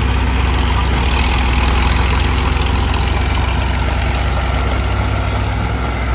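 Large crawler tractor's diesel engine running steadily with a deep rumble.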